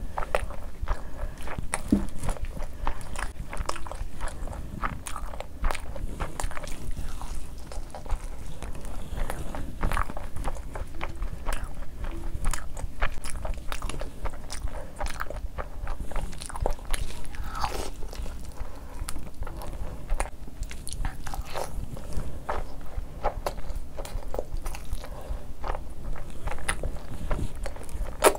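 A person chewing and eating by hand, close to the microphone: mouthfuls of rice with mutton and chickpea curry. The sound is a continuous stream of short clicking chewing and biting noises with no pause.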